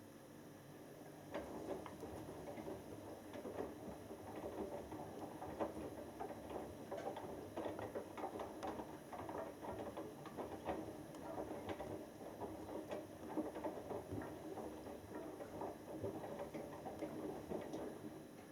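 Hoover Dynamic Next washing machine drum turning its wet cotton load, a busy irregular patter of clothes dropping and water splashing inside the drum. It starts about a second in and stops just before the end, one tumble stroke of the wash.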